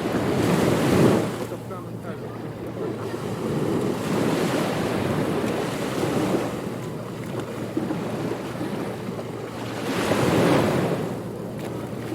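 Ocean surf on a beach: a steady wash of waves, with a louder wave breaking about a second in and another near the end.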